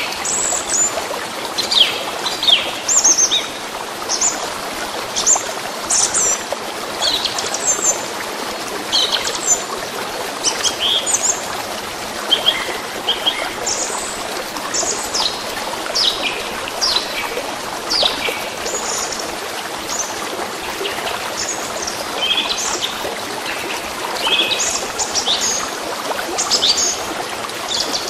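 Songbirds chirping and calling over the steady rush of a flowing stream. Short, high chirps come thick and fast throughout, above the unbroken sound of the water.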